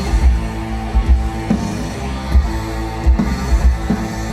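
Rock band music in an instrumental stretch between sung lines: drum kit, bass and guitar playing with no vocals.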